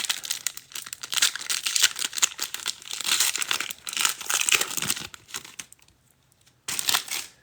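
A trading card pack's wrapper being torn open and crinkled by hand, a dense crackle for about five seconds that then stops, with one short rustle near the end.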